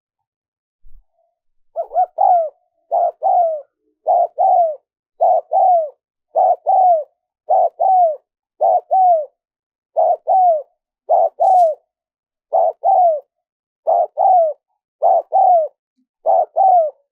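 Spotted dove cooing: a steady series of two-note coos, about one pair a second, starting about two seconds in.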